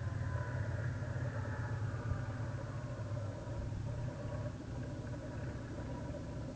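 Cessna 172's piston engine running steadily at low power, easing off slightly partway through.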